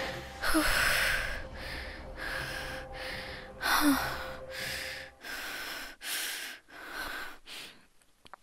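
A person breathing heavily and fast, about ten gasping breaths in quick succession, with two stronger gasps among them. This is frightened, panicky breathing.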